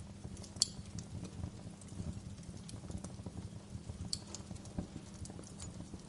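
Wood fire crackling: dense small ticks and pops over a low rumble, with two sharper pops about half a second in and about four seconds in.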